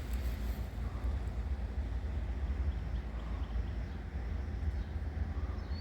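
Diesel freight locomotive working at a distance as it shoves its cars into the yard: a steady low rumble with no clear rhythm or change.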